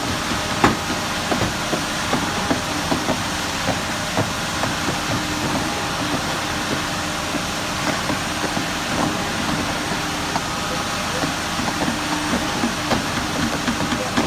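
A heavy machine's engine running steadily, with frequent irregular knocks and clanks over it.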